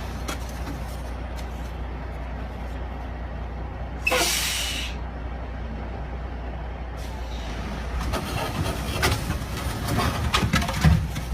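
Heavy truck rumbling low, with a sudden sharp hiss of air from its air brakes about four seconds in that dies away within a second; from about eight seconds on, irregular knocks and rattles.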